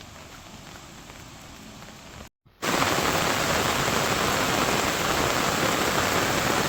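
Rain falling steadily, with scattered drops ticking. About two and a half seconds in, after a sudden cut, it gives way to a much louder, dense rush of heavy rain.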